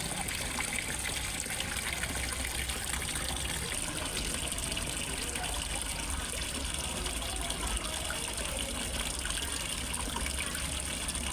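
Water falling and trickling steadily into a fish pond, as from a small waterfall, with an even splashing that does not change.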